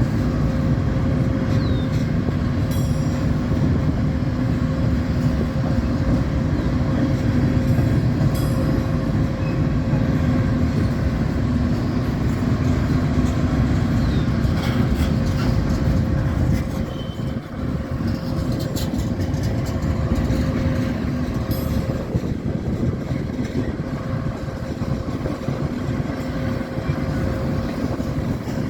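A train running past steadily: a continuous low rumble with a steady drone and scattered light clicks and squeaks from the wheels, easing off a little past the middle.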